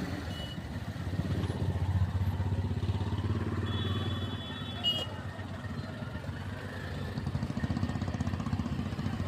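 A motor vehicle's engine running with a steady, pulsing rumble, and a short horn beep about four seconds in.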